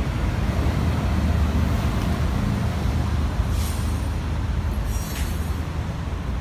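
Steady low rumble of nearby road traffic, with two brief hisses about three and a half and five seconds in.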